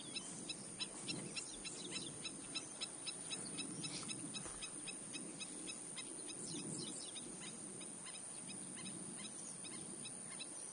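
Wild birds calling: a steady run of short, high chirps, several a second, with a few longer sweeping calls in between.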